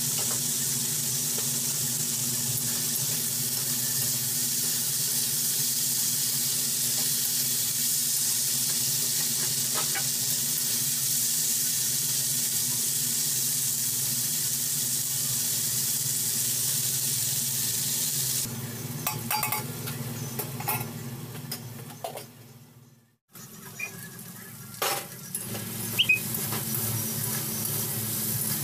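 Potato sticks frying in a steel pan, a steady sizzle. About 18 seconds in the sizzle falls away into clinks and knocks of a steel spatula and utensils against the pan. The sound cuts out briefly, then a sharp clink comes near the end.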